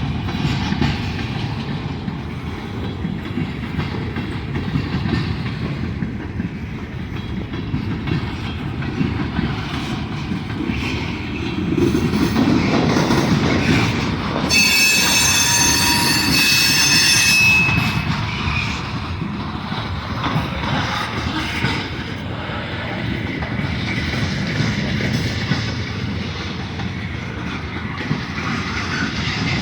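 Freight cars of a long manifest train rolling past: a steady rumble and clatter of steel wheels on rail. About halfway through comes a loud, high-pitched wheel squeal lasting about three seconds.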